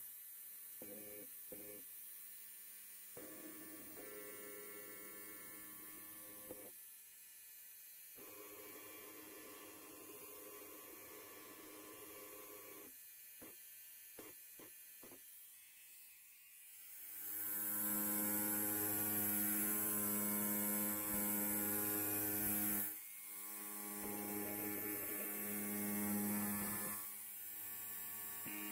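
Electric hair clipper running with a steady buzz. It gets louder a little past halfway, cuts out briefly about four-fifths in, then comes back.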